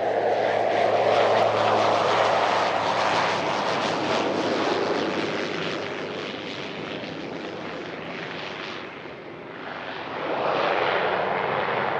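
Private jet's engines running close by on the runway: a loud, steady hiss that swells in the first seconds, fades, then rises again near the end.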